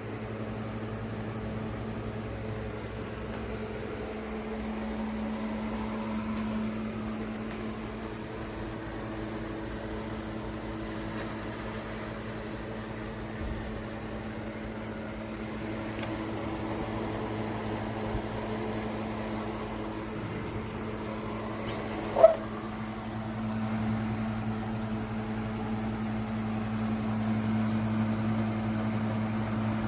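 Honeywell HT900C TurboForce desk fan running with a steady motor hum. A single brief sharp sound stands out about two-thirds of the way through.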